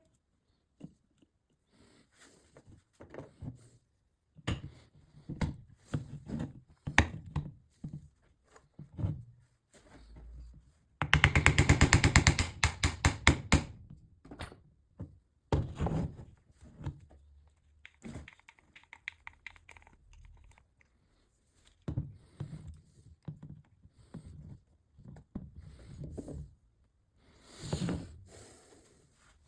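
Parts and tools being handled during repair work on a Hilti TE 70 ATC rotary hammer: scattered knocks, thunks and scrapes, with a loud run of rapid, even clicking for a few seconds near the middle.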